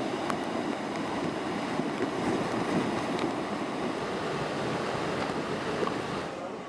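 Fast-flowing floodwater rushing: a steady noise of moving water that eases off near the end.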